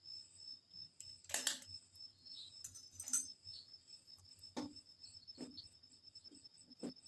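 A faint, steady high-pitched whine with several scattered sharp clicks and knocks, the loudest about a second and a half in and about three seconds in.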